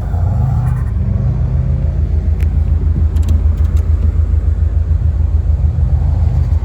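Subaru WRX's turbocharged flat-four engine running with a loud, evenly pulsing low rumble; its engine speed rises and falls in the first second, then holds steady.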